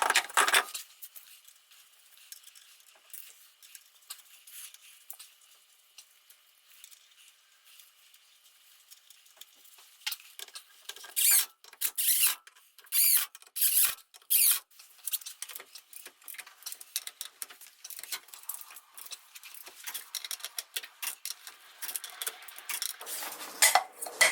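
Small metal tool-and-hardware sounds while stainless lug nuts go onto a VW Bus front wheel: light clicks and scrapes, with about five short rasping bursts near the middle.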